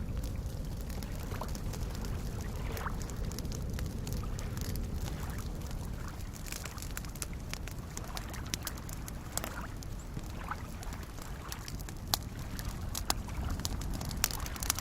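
Campfire crackling with scattered sharp pops, more of them in the second half, over soft lake waves lapping as a steady low wash.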